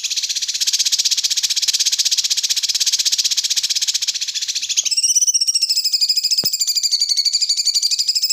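Recorded songbird trill used as song-tutoring material for white-rumped shamas: a loud, continuous, very fast buzzy rattle. About five seconds in it switches to a higher, sharply pulsed trill made of several stacked tones.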